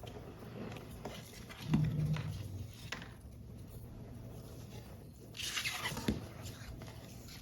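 Paper model parts being handled on a tabletop, with scattered light ticks and taps, a soft low knock about two seconds in, and a brief papery rustle a little past halfway.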